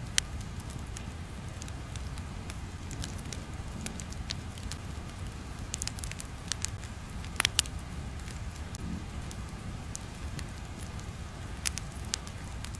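Crackling fire ambience: a steady low rumble with scattered, irregular pops and crackles, two sharper pops about seven and a half seconds in.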